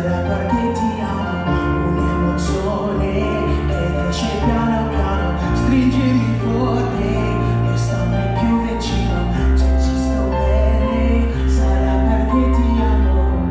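Live instrumental music from a small ensemble: a wavering violin melody with piano over held low bass notes, and faint beats about every two seconds.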